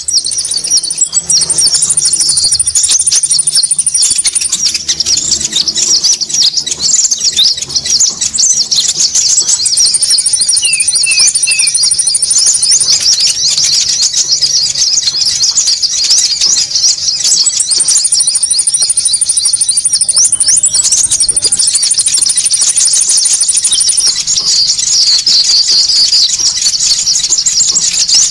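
Bird-lure recording of konin birds calling noisily: a dense, unbroken chorus of rapid high chirps, with long high buzzing trills laid over it at several points, used to draw wild birds in.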